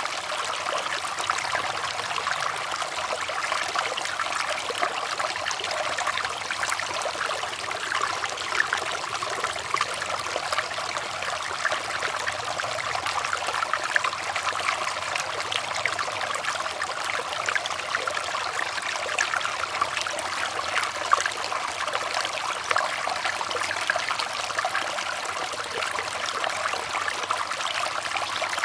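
Running water in a stream, trickling steadily with a continuous fine splashing.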